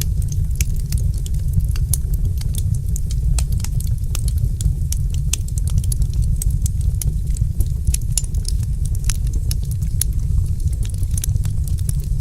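Wood fire crackling with frequent small irregular pops over a steady low roar of the flames.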